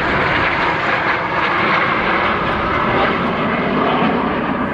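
Aermacchi MB-339 jet trainers flying over, their Rolls-Royce Viper turbojets making a loud, steady jet noise.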